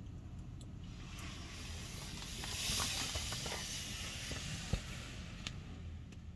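A hissing rush of noise that swells about two seconds in, peaks, then fades, over a steady low rumble, with a few faint clicks.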